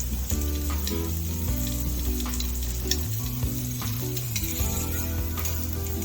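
Hot links sizzling as they fry in a greased pan, a steady hiss flecked with small pops.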